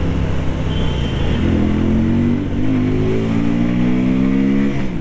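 Keeway Benda V302C's 300cc two-cylinder engine pulling under throttle, its exhaust note rising steadily in pitch for a few seconds, then dropping sharply near the end.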